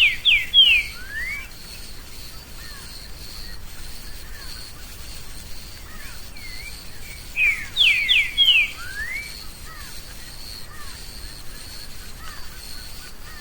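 Green-winged saltator (trinca-ferro) singing: two phrases of clear whistled notes that slide down in pitch, one at the start and another about seven seconds later.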